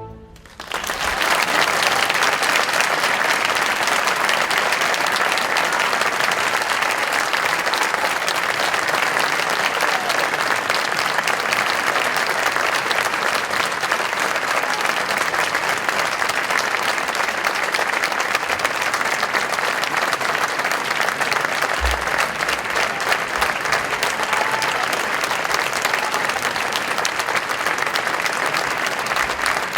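Concert audience applauding steadily after the orchestra's final chord, a dense even clapping that starts about a second in.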